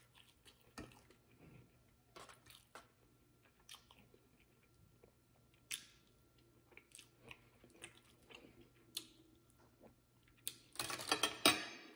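Close-miked chewing of a forkful of stuffed baked chicken breast: soft, scattered mouth clicks and smacks, with a louder stretch of mouth sounds near the end.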